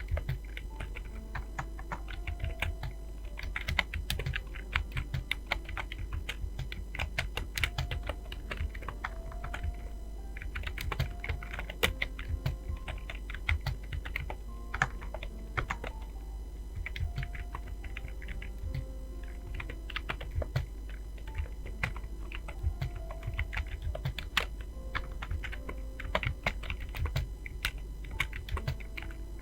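Computer keyboard being typed on fast and without a break: a dense, irregular run of key clicks, as in a timed typing test.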